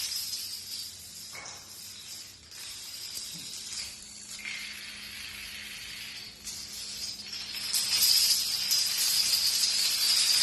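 A steady high-pitched hiss with a faint low hum beneath it, growing louder about three quarters of the way through.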